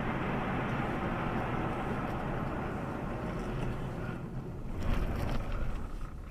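Steady road and engine noise of a moving car, rising briefly to a louder rush about five seconds in.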